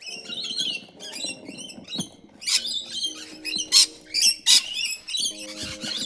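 Small birds chirping, many short high chirps in quick succession, over soft background music with held notes. A few brief splashes of hands in a tub of water beads stand out as the loudest moments.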